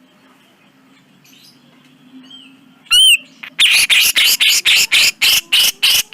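Cucak jenggot (grey-cheeked bulbul) calling. A single loud arched whistled note comes about three seconds in, then a rapid run of harsh, rasping chatter notes, about four or five a second.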